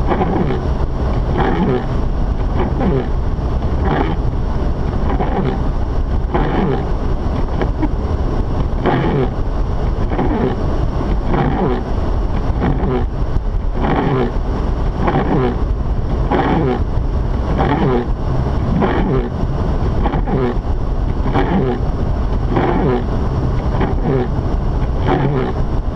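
Steady driving noise inside the cabin of a Mazda RX-8, its engine and tyres making a constant low rumble, with a soft repeating sweep about once a second.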